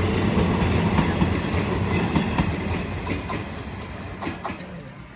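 Coaches of a passenger train going by on the next track: a loud rumble with clattering wheels that fades over the second half as the last coach passes, with a few sharp clicks of wheels over rail joints near the end.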